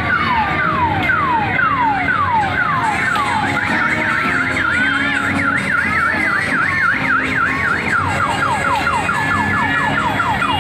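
Electronic toy siren sound effect from a kiddie ride, cycling through patterns: falling wails about two a second, then a fast up-and-down warble from about four seconds in, then quicker falling wails near the end.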